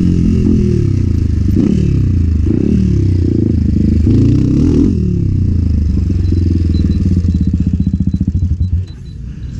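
Enduro motorcycle engine revving up and down repeatedly as it is ridden, then settling to a slower, steady chugging beat with separate firing pulses, and dropping off near the end.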